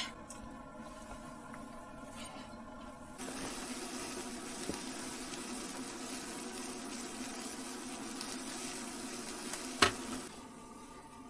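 A steady hiss that starts suddenly about three seconds in and stops just after a sharp click near the end.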